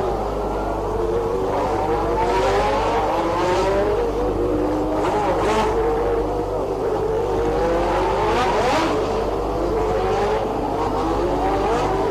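Several Formula One cars' engines running together, their overlapping notes rising and falling as they rev. Cars pass close several times.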